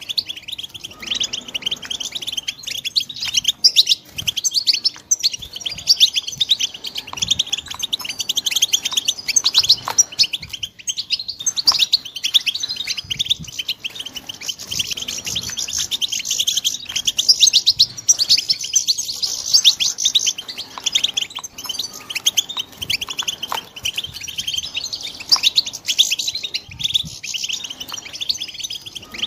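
Young European goldfinches singing: a continuous stream of rapid, twittering chirps.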